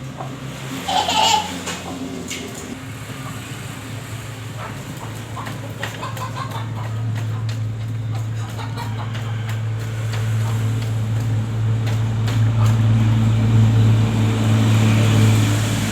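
A motor running with a steady low hum that grows gradually louder, with a short high-pitched cry or laugh about a second in.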